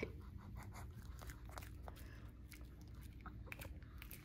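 A Shih Tzu chewing a hard, crunchy dog treat: faint, irregular crunching clicks.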